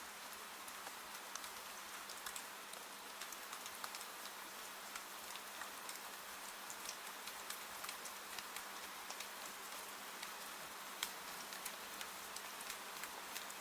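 Steady rain falling, a soft even hiss dotted with many small sharp taps of individual drops.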